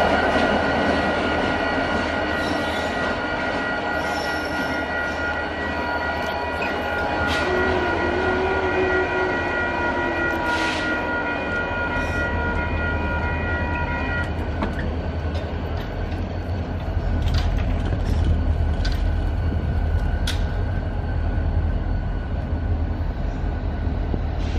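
Union Pacific diesel locomotives running with a low engine rumble as they pull away over the tracks. Level-crossing signal bells ring steadily over the rumble and cut off suddenly about 14 seconds in; a few light clanks follow.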